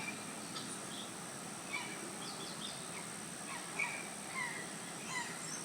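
Birds chirping, with short scattered calls over a steady background hiss.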